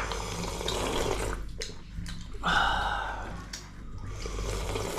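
Goat-meat curry broth being slurped from a plate or bowl, in a few uneven sucking swells, the loudest about halfway through.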